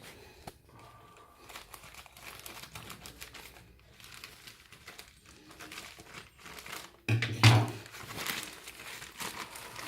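Packaging crinkling and rustling as an Amazon parcel is opened by hand, with a sudden louder burst of rustling about seven seconds in.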